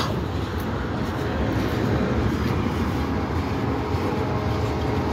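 Norfolk Southern freight train of tank cars rolling past, the steady noise of its wheels on the rails.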